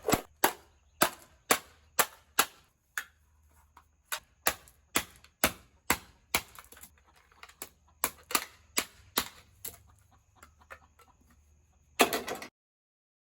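Scrap aluminum being smashed and chopped into crucible-sized pieces: a run of sharp blows, about two a second with a few quicker clusters, that stops suddenly near the end.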